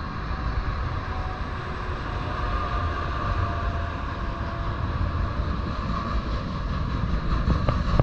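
Freight train cars rolling steadily past: a continuous rumble of wheels on the rails.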